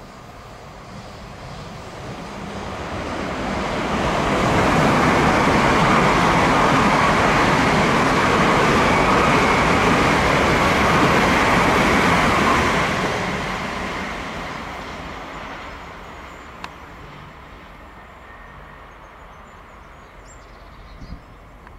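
Electric multiple-unit passenger train passing: its noise builds over a few seconds, holds steady for about eight seconds, then fades away.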